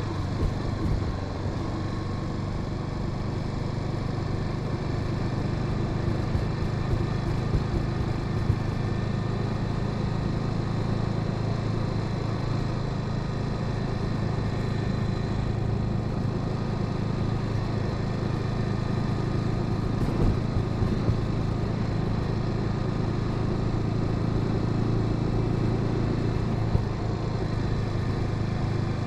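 Honda Sahara 300 single-cylinder motorcycle engine running steadily, with a few small knocks along the way.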